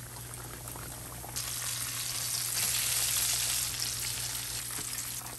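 Breaded catfish fillets frying in hot oil in a skillet: a steady crackling sizzle that jumps louder about a second and a half in.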